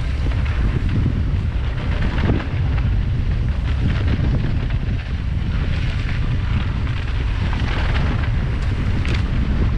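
Wind buffeting a ride camera's microphone on a mountain-bike descent, a steady heavy rumble, with scattered clicks and rattles from the bike and tyres over the rough trail.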